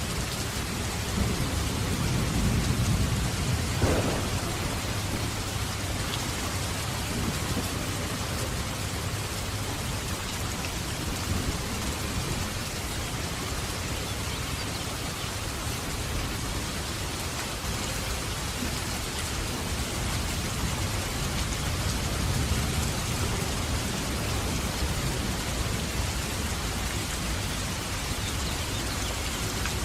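Steady heavy rain, with thunder rumbling in the first few seconds and ending in a sharper crack about four seconds in, then another low roll of thunder past the middle.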